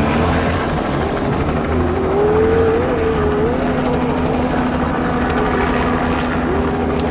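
Helicopter flying close by, a loud steady drone of rotor and engine, with an engine note that wavers up and down in pitch through the middle.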